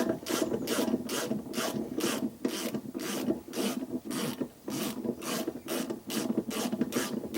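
Hand ratchet clicking in steady strokes, about three a second, as the lower shock absorber bolt is undone.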